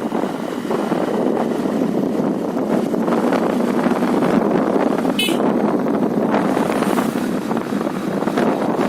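Steady rush of wind buffeting the microphone on a moving bike, with a brief high-pitched chirp about five seconds in.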